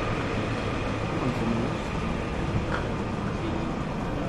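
A train at a station platform, giving a steady low rumble.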